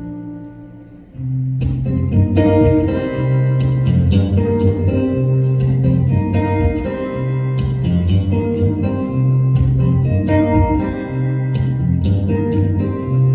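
Live band playing an instrumental intro on electric guitars and bass: a held chord fades away, then about a second and a half in the full band comes in with plucked guitar lines over repeated bass notes in a steady rhythm.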